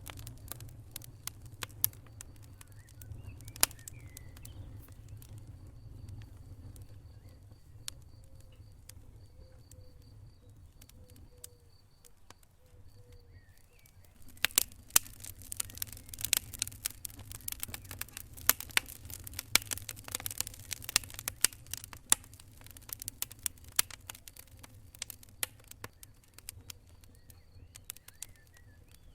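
Wood fire in a fireplace crackling, with sharp pops over a low steady rumble of the flames. The crackling grows much denser about halfway through.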